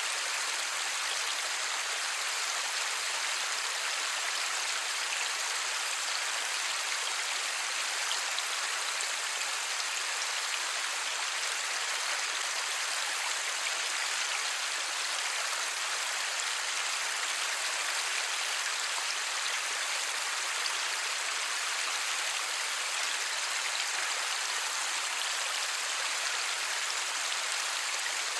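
Light rain falling steadily: an even, unbroken hiss with no thunder.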